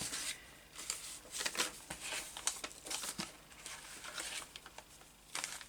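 Irregular rustling and crinkling of paper and a sticker sheet being handled, with scattered light scrapes.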